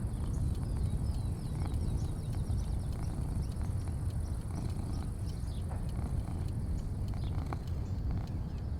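Outdoor afternoon ambience: a steady low rumble with a faint, even high-pitched hum over it. A bird gives a quick run of short falling chirps in the first few seconds, and a few light clicks are scattered through.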